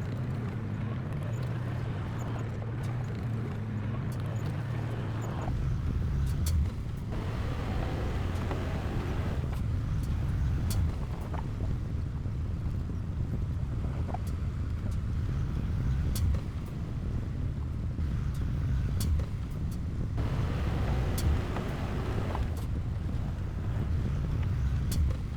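Heavy diesel earthmoving machinery running steadily at work. The low engine note shifts and grows stronger about five seconds in, and there are stretches of louder grinding noise.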